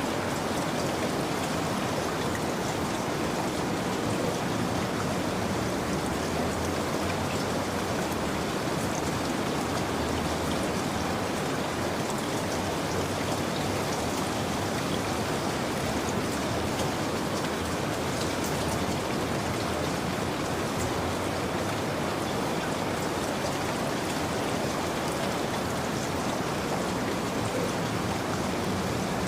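Steady rain falling, an even wash with faint scattered drop ticks and no changes in level.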